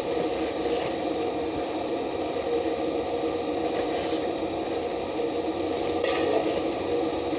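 Stick (arc) welding on a backhoe arm: a steady frying crackle from the electrode arc, over a faint steady hum.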